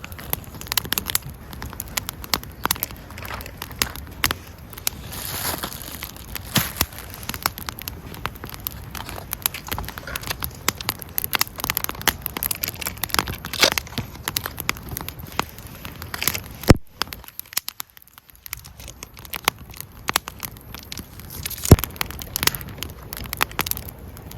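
Wood fire crackling, with a steady stream of small snaps and two sharper, louder pops in the second half.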